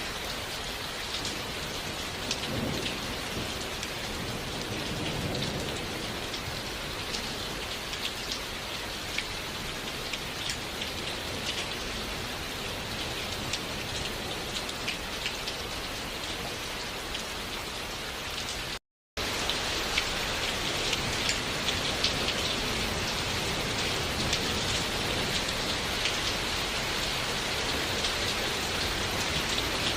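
Steady rain with many individual drops ticking on a surface, and a low rumble of distant thunder a few seconds in. About two-thirds of the way through the rain cuts out for a split second, then comes back slightly louder.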